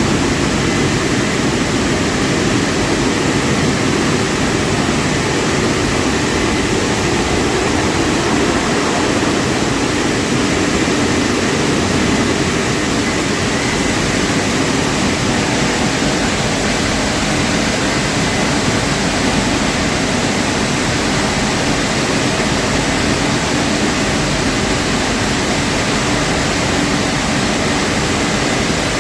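Automatic car wash running, a steady loud rushing noise from its water spray or air blowers, without a break.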